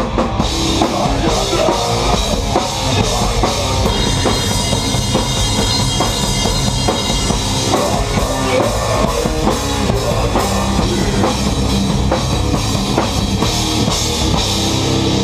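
Live rock band playing loudly, the drum kit prominent with a driving beat of kick and cymbals.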